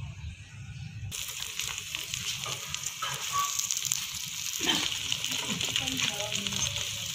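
Paratha frying in oil on a flat iron tawa, with a steady crackling sizzle that starts abruptly about a second in.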